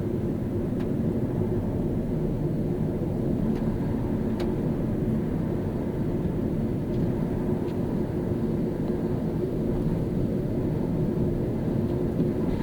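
Car driving on a rain-wet road: a steady low rumble of tyres and running gear, with a few faint ticks.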